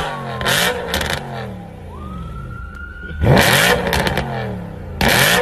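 Car engine with a loud exhaust revved in sharp blips, about three in all, each dropping back with crackling pops. A high whistling tone falls away, then rises again between the revs.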